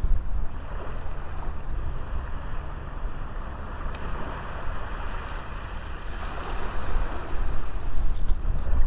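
Ocean waves breaking and washing up on a small beach, a continuous surf wash that swells again near the end, with wind buffeting the microphone as a low rumble.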